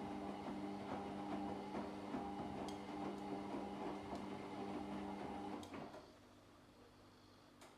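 Washing machine mid-wash: the drum motor hums steadily with small knocks and clicks as the laundry tumbles, then stops about six seconds in and the drum rests quietly.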